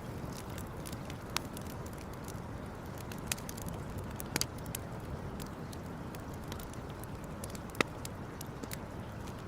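Campfire crackling, with a handful of sharp wood pops over a steady low rush; the loudest pop comes near the end.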